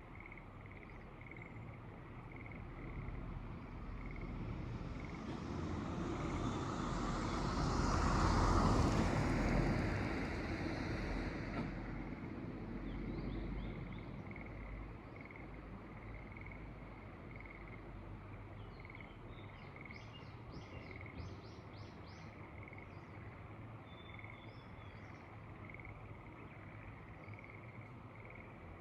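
Rice-terrace ambience: frogs calling in a steady, evenly repeated pulse, with a few bird chirps in the second half. A broad rush of noise swells to a peak about a third of the way in and fades by the middle.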